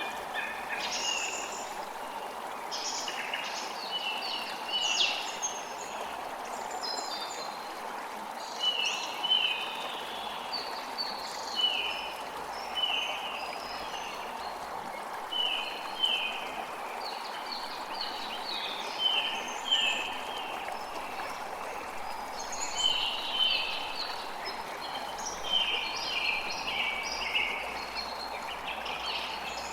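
Creek water running steadily, with songbirds chirping over it throughout. One bird repeats a short falling note about once a second.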